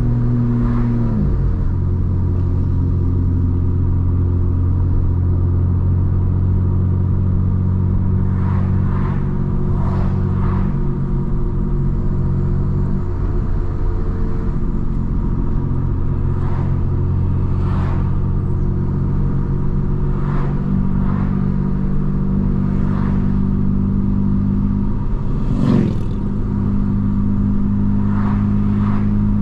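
Straight-piped BMW M4 Competition's twin-turbo inline-six cruising at low speed, a steady deep drone. Its pitch drops about a second in and steps up again near the end as the revs change.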